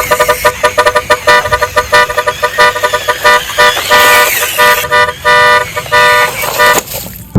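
Truck-style horn honking in many short repeated blasts, some held a little longer, over a steady rumbling noise.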